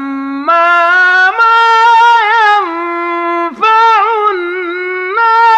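A man reciting the Quran in the melodic Hijazi style. He holds long notes that step up in pitch, adds wavering turns, and breaks off briefly about three and a half seconds in before going on.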